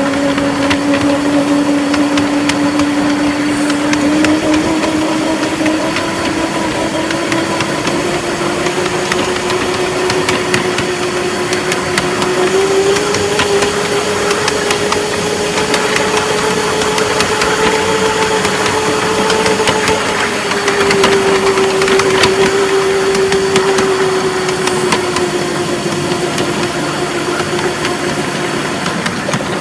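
A vehicle's engine or motor running steadily under a noisy rumble. Its pitch climbs slowly over about twelve seconds, holds, then eases back down in the last third.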